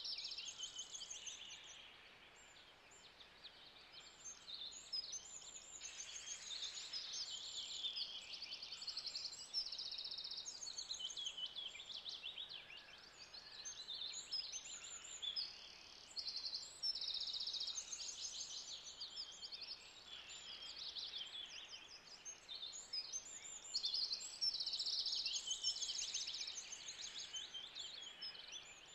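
Birds singing: a run of short, rapid, high-pitched trilled phrases, one after another, over faint outdoor background noise.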